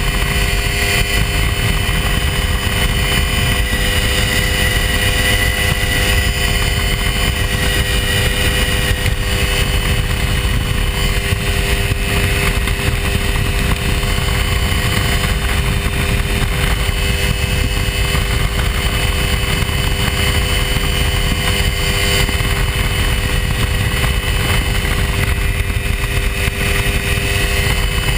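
Hy-Tek Hurricane ultralight's engine droning steadily in flight, with a heavy low rumble of wind on the microphone.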